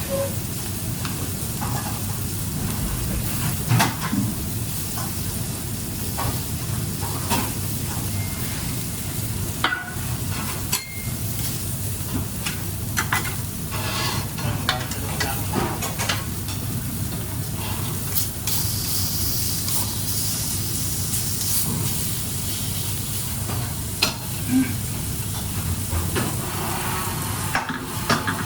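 Food sizzling as it fries in a pan, with a utensil stirring and clinking against the pan many times.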